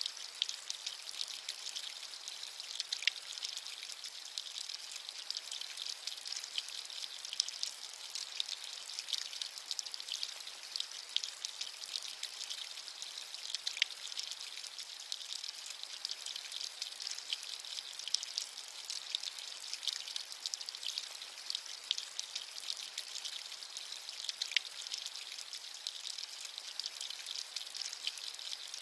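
Steady rain with many fine drops pattering, a thin high hiss with little low rumble, and scattered single drips standing out.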